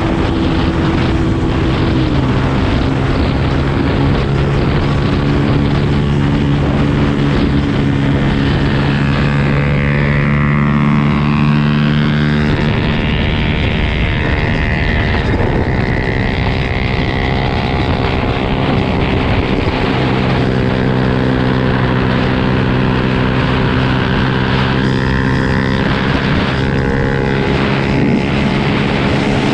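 Motocross bike's engine running under way. Its note holds steady, drops about twelve seconds in, climbs back over the next several seconds, then holds steady again.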